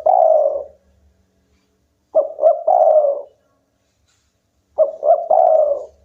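Spotted dove cooing: a repeated phrase of two short coos followed by a longer drawn-out coo, about every two and a half seconds.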